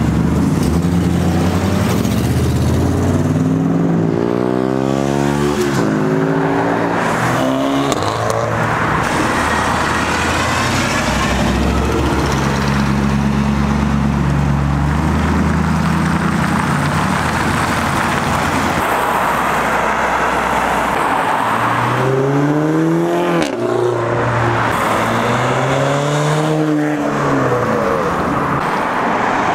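Car engines revving hard as cars accelerate away one after another, with rising pitch sweeps a few seconds in and again near the end. In between, a pickup truck's engine rumbles steadily as it rolls slowly past.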